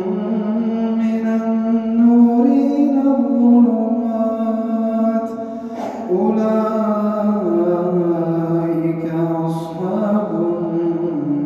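A man's voice chanting Quran recitation in a melodic tajwid style, drawing out long held notes that step up and down in pitch, with a short break about six seconds in.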